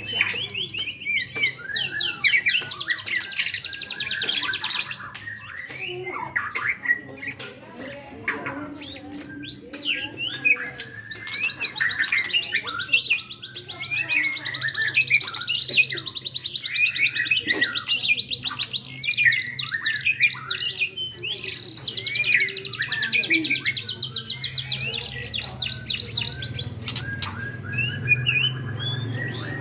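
White-rumped shama (murai batu) singing a long, varied song of whistled notes and chirps, broken several times by long, fast trills.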